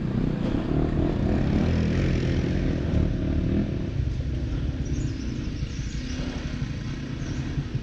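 Off-road motorcycle engine running, louder for the first three and a half seconds and then easing off to a lower, steady level.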